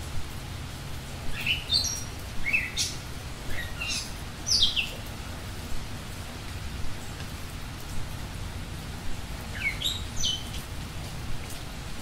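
Tropical rainforest ambience: a steady rain-like hiss with a bird calling in short runs of quick notes that step up in pitch, several in the first five seconds and again about ten seconds in, one of them a falling sweep.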